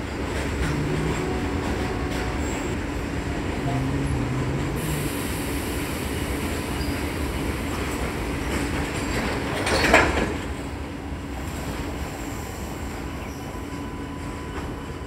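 ICF-built electric multiple unit local train running with a steady mechanical rumble and faint steady tones, with one brief louder burst about ten seconds in.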